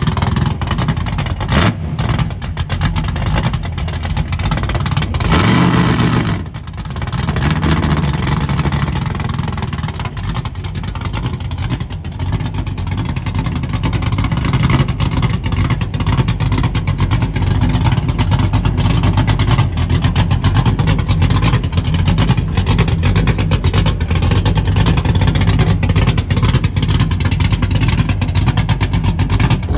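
Engine of a 1994–98 Ford Mustang drag car running at low speed, revved briefly about five seconds in, then idling with a rapid pulsing exhaust note.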